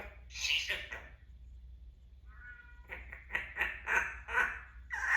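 Timneh African grey parrot vocalizing: a call in the first second, a short pitched note a little after two seconds, then a quick run of sharp chattering calls.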